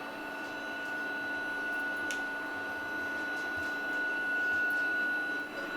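A steady high-pitched electrical whine over a lower hum, unchanging throughout, with a single faint click about two seconds in.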